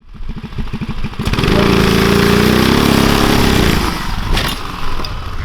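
Mini bike's small engine running with low, even firing pulses, then revving up loud about a second in, holding high, and easing off again around four seconds.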